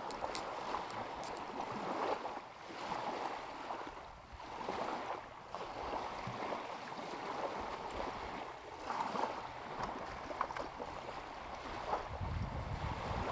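Small lake waves lapping at the shore, washing in and fading about every one to two seconds. Near the end, wind buffets the microphone with a low rumble.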